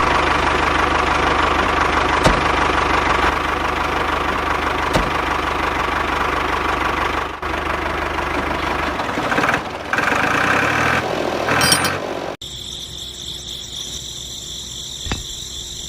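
Engine of a homemade mini loader tractor running steadily, its pitch rising and falling for a few seconds near the end. About twelve seconds in it cuts off abruptly, giving way to quieter background music.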